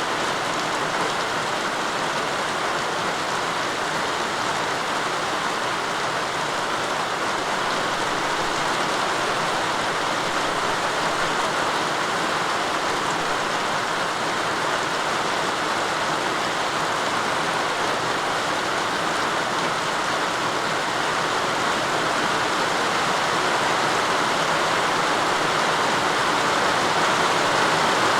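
Steady rain falling, an even hiss with no separate drops standing out, growing slightly louder toward the end.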